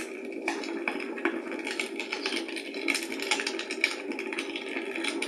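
Wood fire crackling in a fireplace: many irregular pops and snaps over a steady hiss.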